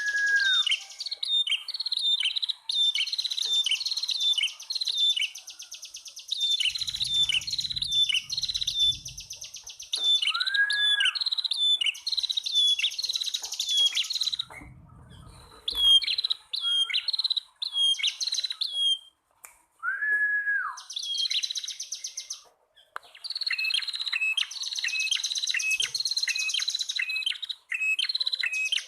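A male and female prenjak tamu calling together: a fast run of sharp repeated chirps over a high buzzy trill, broken by short pauses, with a lower drawn-out arched note about every ten seconds.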